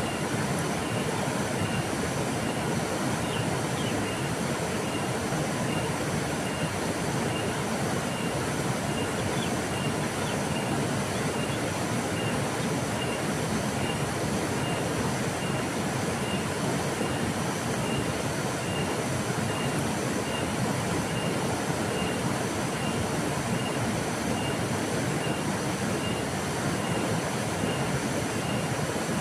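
River water flowing in a steady, even rush. A faint high chirp repeats at an even pace, about once every three-quarters of a second.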